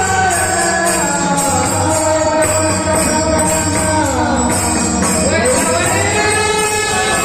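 Warkari bhajan: male voices sing long, gliding held notes over hand cymbals that jingle about twice a second and a steady drum.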